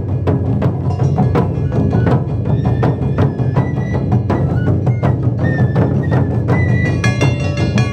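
Japanese taiko drums played live by an ensemble in a fast, driving rhythm of dense strikes with a deep low end. About three seconds in, a high held melodic line joins the drumming.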